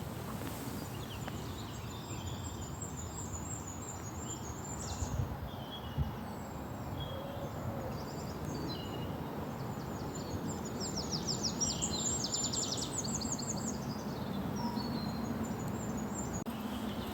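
Wild birds singing: a mix of high chirps and whistles, with a rapid trill of quickly repeated notes about two-thirds of the way through, over a steady low background noise. Two soft thumps come about five and six seconds in.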